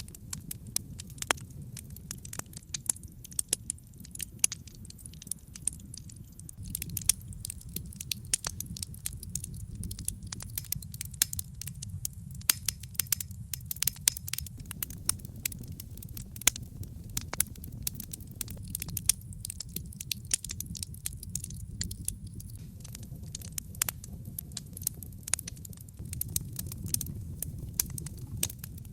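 Wood logs burning in a brick fireplace, crackling with frequent sharp pops and snaps over a steady low rumble of the flames.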